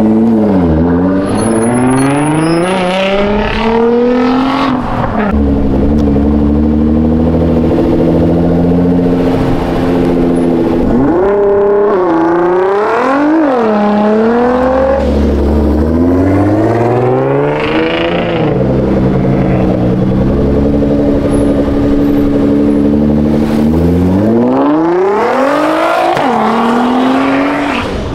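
Nissan GT-R twin-turbo V6 engines accelerating away one after another. The engine note holds steady, then climbs sharply in pitch several times as each car revs out.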